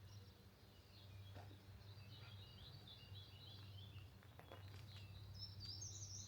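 Small birds chirping and singing faintly, with a louder, higher burst of song near the end, over a steady low background hum.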